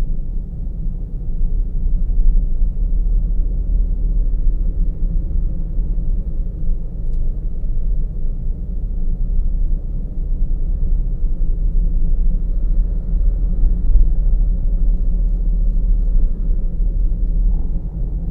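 A car driving on the road, heard from inside: a steady low rumble of road and engine noise.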